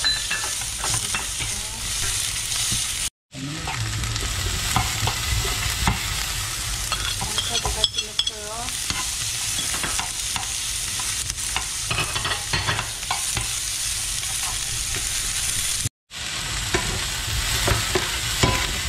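Diced pork, onion and leek sizzling in hot oil in a frying pan, stirred and scraped around with a metal spatula. The sizzle is steady under the scrapes and cuts out abruptly twice for a moment.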